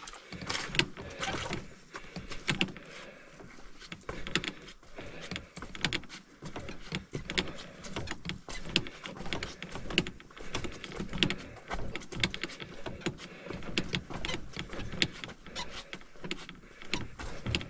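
Footsteps on a muddy portage trail, with the carried pack and gear creaking and knocking at every step: a steady run of sharp clicks and low thuds.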